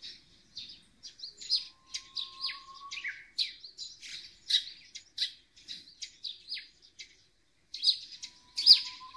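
Small songbirds chirping: quick, repeated short high calls, about two a second, with a brief pause about seven seconds in.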